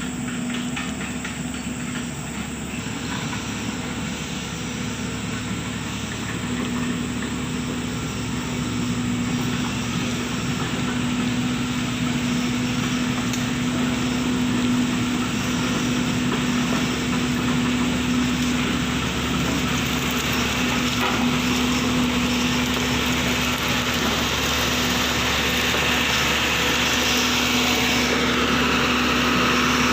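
A heavy engine running steadily with a constant low drone, growing gradually louder.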